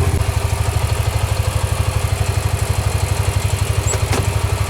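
A vehicle's engine idling steadily with an even, rapid pulse.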